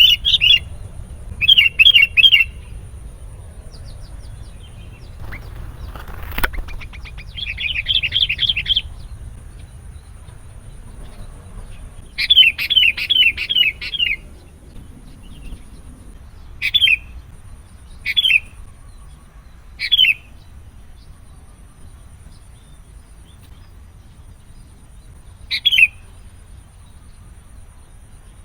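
Sooty-headed bulbul (kutilang) calling. Three quick bursts of rapidly repeated chattering notes come first, then single short calls every couple of seconds or more.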